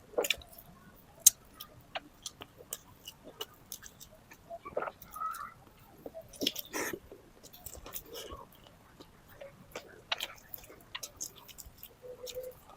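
Close-miked chewing and biting of chicken tinola: irregular wet mouth clicks and smacks, with a denser run of them about six to seven seconds in.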